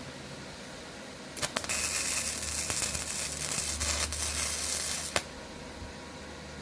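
Electric welding arc crackling and hissing on the mower's metal handle: it catches with a few stuttering strikes, then runs as a steady crackle with a low hum for about four seconds and cuts off suddenly.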